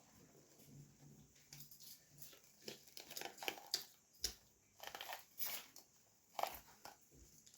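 Faint eating sounds, with scattered short clicks and crackles of chewing and of puri being torn, irregular and a little louder from about halfway through.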